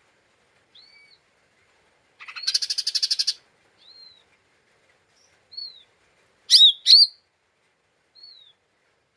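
Lesser green leafbird (cucak ijo mini) calling: soft, short arched whistles, a fast chattering rattle about two seconds in, and a pair of loud, sharp notes near seven seconds.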